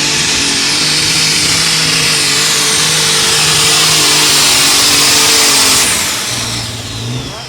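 Turbocharged super stock pulling tractor engine at full throttle under load with a high turbo whine. About six seconds in the throttle comes off, and the engine note drops while the turbo whine falls away as it spools down at the end of the pull.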